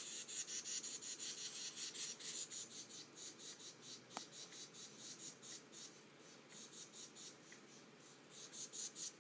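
Small birds chirping, a quick run of short high chirps several a second, thinning out in the middle and picking up again near the end.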